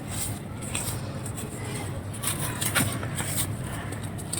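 Dry clay crumbling under light pressure: irregular crisp crackles and small cracks, thickest midway, over a steady low hum.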